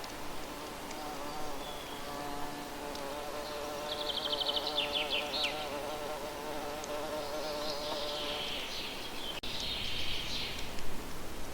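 A flying insect buzzing close by, its hum wavering in pitch and fading out about eight seconds in. Small birds sing over it: a rapid trill about four seconds in and a longer song near the end.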